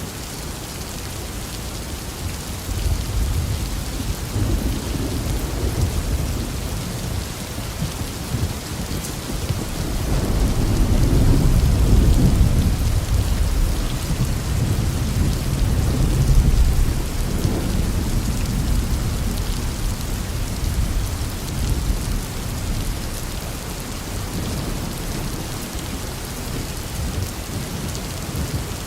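Steady rain with rolling thunder. The thunder rumbles low and swells to its loudest about ten to thirteen seconds in, then again around sixteen seconds.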